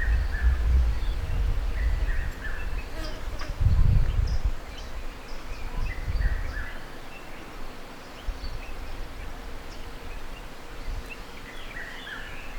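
Birds calling outdoors: short two-note calls that drop in pitch, repeated every few seconds, with fainter high chirps from other birds. An uneven low rumble runs beneath them, heavier in the first half.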